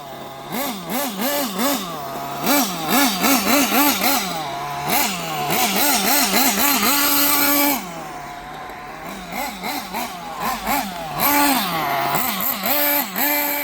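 Kyosho nitro engine buggy's small glow engine being throttled in quick repeated blips, its pitch rising and falling again and again, with one longer held rev about seven seconds in, a quieter stretch, then more blips near the end.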